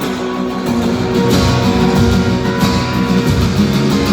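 Acoustic guitars strumming an instrumental passage of a live acoustic rock song, with the vocals paused.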